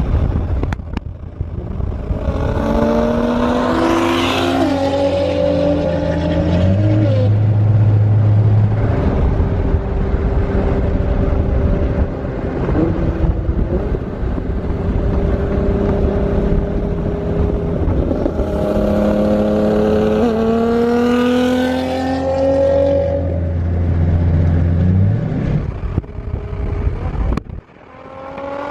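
Car engine accelerating hard through the gears in two runs, its pitch climbing and then stepping down at each upshift, with steady cruising between the runs.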